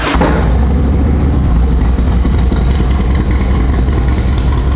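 Harley-Davidson Twin Cam 88 V-twin catching right at the start and then idling steadily with a deep rumble through a Vance & Hines 2-into-1 exhaust.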